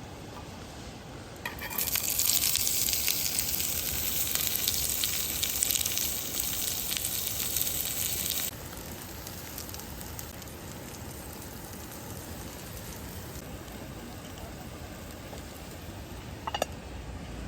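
Food sizzling on a hot pan or grill: a loud, crackly hiss that starts about two seconds in and cuts off suddenly about halfway through, leaving a faint steady hiss. A short sharp clink comes near the end.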